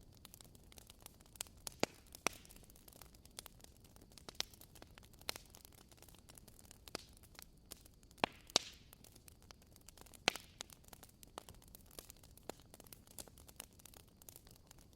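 Burning firewood crackling: irregular sharp pops and snaps over a soft hiss, with a few louder pops a little past the middle.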